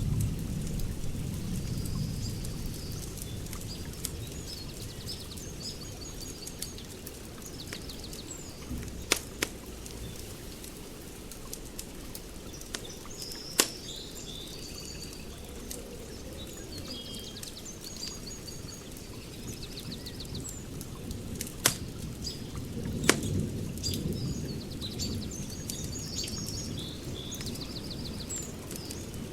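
Wood fire crackling with a low rumble and a few sharp pops, while small birds chirp and trill over and over.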